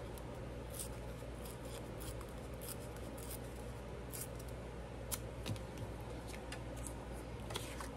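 Scissors cutting paper in soft, irregular snips, over a steady low hum.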